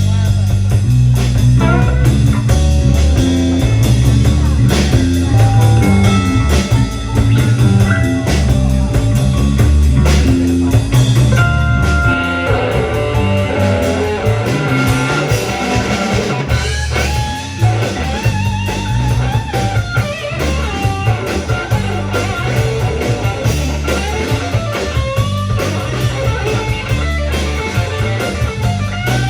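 Live rock band playing: electric guitar lead over bass and drum kit.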